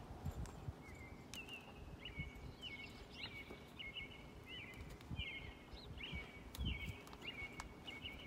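A bird calling over and over in short chirping notes, about two a second, over low, irregular thumps and rustling.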